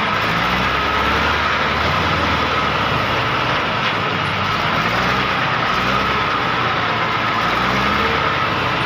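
Massey Ferguson 265 tractor's three-cylinder diesel engine running under heavy load, its note rising and falling, as it strains to haul an overloaded trolley stuck in mud.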